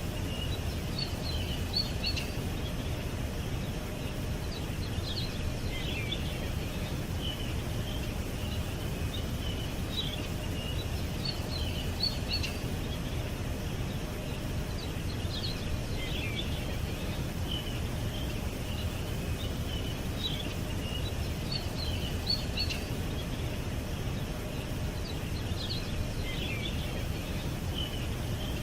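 Small birds chirping and twittering in short, repeated high calls over a steady low background rumble.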